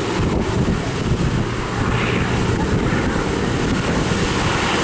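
Hawker Fury's Bristol Centaurus radial engine running steadily as the aircraft flies its display, with wind buffeting the microphone.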